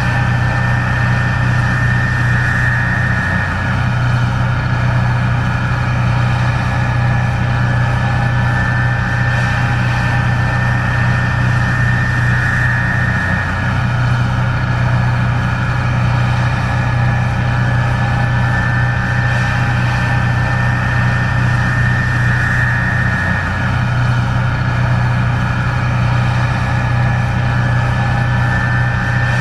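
Case IH 1660 Axial-Flow combine running steadily while harvesting corn: a constant low engine hum with a higher steady whine, the hum dipping briefly about every ten seconds.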